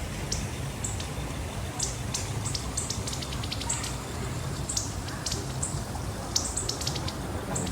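Small forest birds giving quick, high chirps that slide downward, several a second and irregular, over a low, steady rushing noise.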